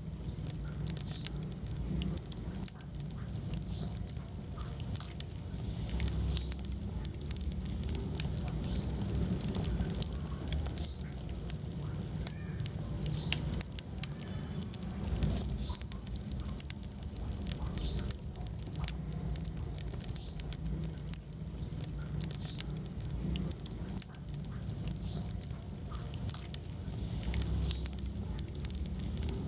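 Wood fire burning: a steady low rumble of the flames with frequent small crackles and pops.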